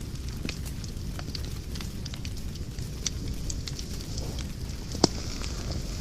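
Wood fire burning in a fireplace, with a steady low rumble of flames and scattered sharp crackles. One loud pop comes about five seconds in.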